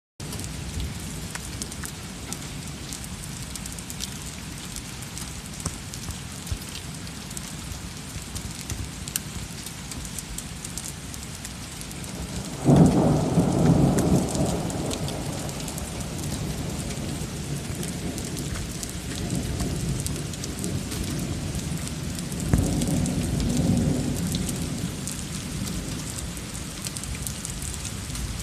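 Steady heavy rain falling, with scattered drop ticks. About halfway through a loud crack and rumble of thunder breaks in and rolls away over a few seconds, and a second, weaker peal of thunder follows near the end.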